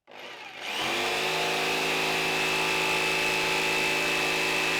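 Electric jigsaw switched on: its motor winds up, rising in pitch over the first second, then runs at a steady speed with a high whine, cutting out a body piece from 18mm plywood.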